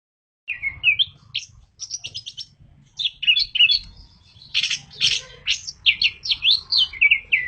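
Orange-headed thrush singing a long, varied song of quick whistled phrases and rapid chirps. It starts about half a second in and ends in a run of short rising notes.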